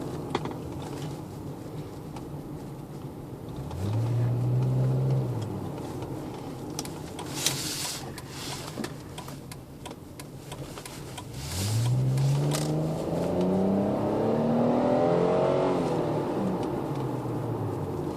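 Chrysler 300C's 3.5-litre V6 breathing through a Magnaflow exhaust with a Y-pipe and the resonator cut out, accelerating twice. First comes a short pull about four seconds in, its note rising and then dropping off. From about twelve seconds a longer pull follows, its pitch climbing for several seconds before falling away.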